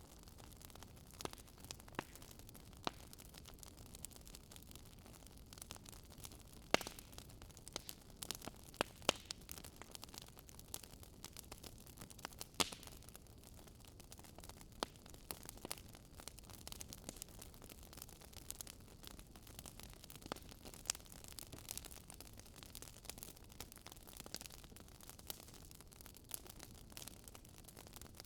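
Fireplace crackling: irregular sharp pops and snaps, a few louder ones, over a faint steady hiss.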